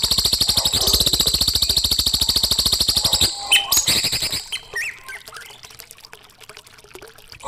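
Songbird trilling: a fast, even run of high chirps for about three seconds, then a few scattered chirps and short whistles, growing much quieter near the end.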